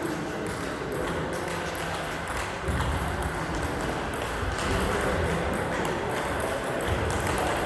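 Table tennis balls clicking against rackets and the table in a series of quick strikes.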